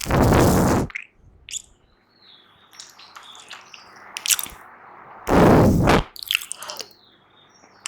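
Close-miked ASMR mouth sounds: puffed-up cheeks let out in two loud, breathy puffs of air, one at the start and one about five seconds in, with small wet clicks and lip smacks between them.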